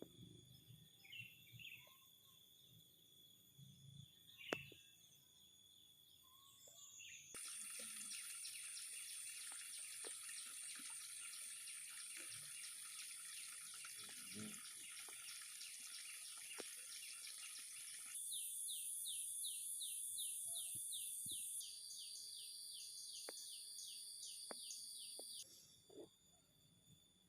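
Outdoor ambience with scattered bird chirps, then a loud, high-pitched insect buzz that starts suddenly about seven seconds in. Later it turns into a rapid, evenly repeated chirping pulse and stops shortly before the end.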